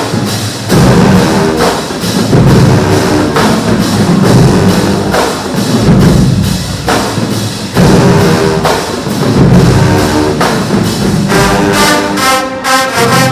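Marching band of brass and drums playing loud, a heavy low-brass riff repeating about once a second over the drums. Near the end it changes to held brass chords.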